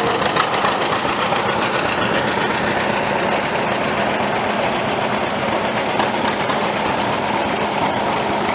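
Antique tractor engine running steadily as the tractor drives slowly past.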